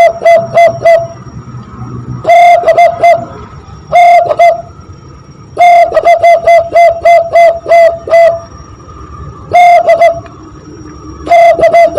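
Hand whistle blown through cupped hands, imitating the cooing song of a zebra dove (perkutut). It comes as repeated phrases, each a longer opening note followed by a quick run of short clear hoots at about three to four a second. Some phrases are long and some are brief, with short pauses between them.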